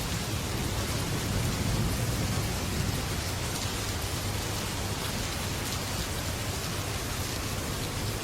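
Heavy rain drumming steadily on a metal roof, with a low rumble of thunder in the first few seconds that eases off.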